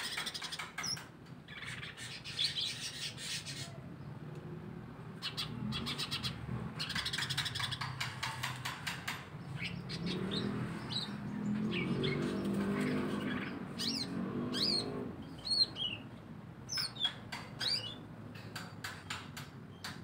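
Small garden birds chirping with short, sharp calls, mostly in the second half, with bursts of quick rustling strokes in the first half. A low hum rises for a few seconds in the middle.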